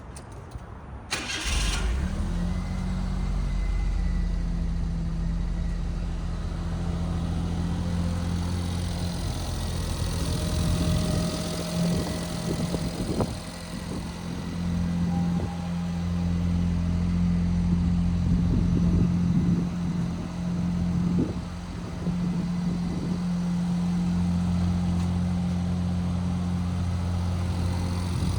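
A 1995 Suzuki Alto Works' small turbocharged three-cylinder engine is cold-started. The starter cranks briefly, the engine catches about a second and a half in, and it then idles steadily with slight rises and falls in level.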